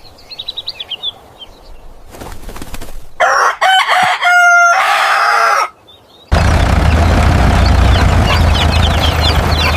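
Farmyard sound effects: chickens clucking and small birds chirping. From about six seconds in, a loud steady noise with a low rumble sets in, with birdsong chirping over it.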